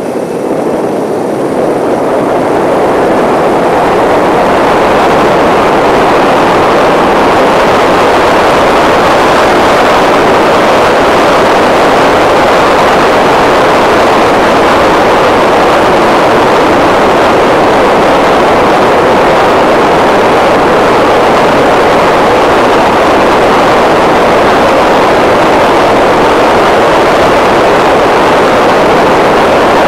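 Loud, steady rushing of wind and motion noise on the microphone of a moving bike, swelling over the first few seconds as speed builds and then holding; no distinct engine tone stands out.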